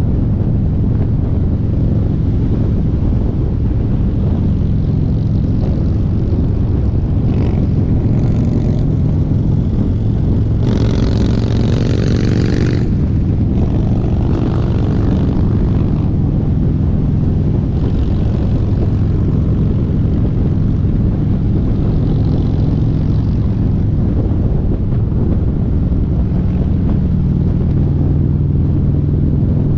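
Harley-Davidson V-twin motorcycle engine running steadily under way, with wind rush. A louder rush of noise rises about eleven seconds in and lasts about two seconds.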